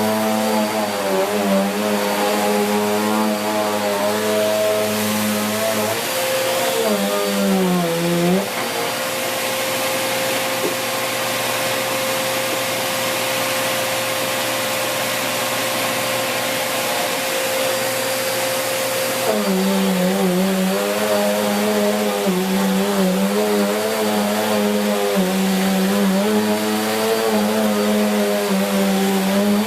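Bissell Cleanview Plus Pet 1900 W bagless upright vacuum cleaner running over carpet, its motor and brush roll note wavering as it is pushed back and forth. From about eight seconds in to nearly twenty seconds the wavering note gives way to a steady single tone, then the wavering sound returns.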